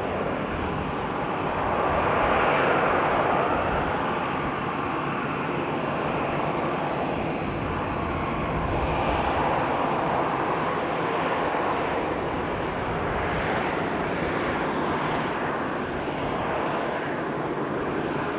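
Jet airliner engines running, a steady loud rushing noise that swells about two to three seconds in.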